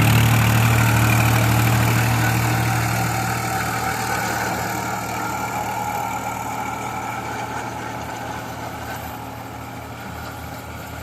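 New Holland tractor's diesel engine running steadily, growing gradually fainter.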